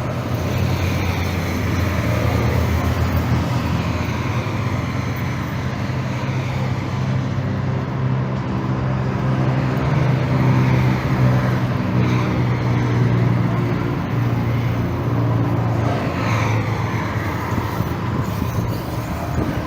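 Road traffic noise: a steady low hum of vehicle engines under a continuous wash of passing traffic, with a few passing vehicles swelling and fading.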